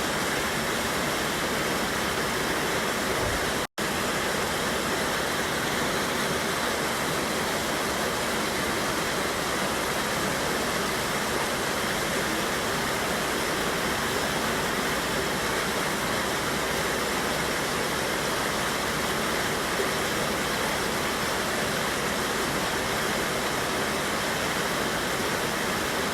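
Steady rushing of a waterfall on a mountain river, an even wash of falling water. The sound drops out for a split second about four seconds in.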